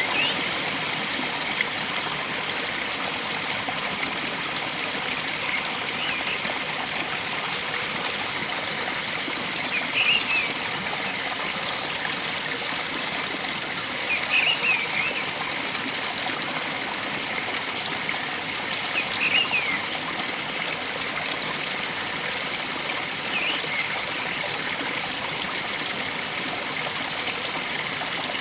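Flowing water rushing steadily, with a bird giving short chirping calls about every four to five seconds.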